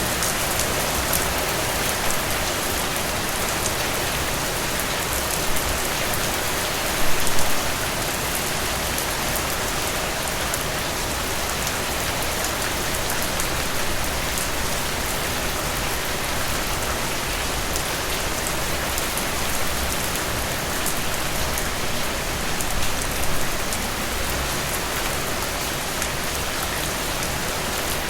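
Steady rain falling and pattering on surfaces, with a few louder, closer drops standing out about a quarter of the way in and again near the end.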